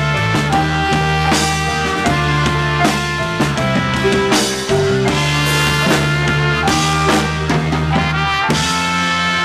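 Live rock band playing an instrumental passage: drum kit beating steadily under sustained bass and guitar notes.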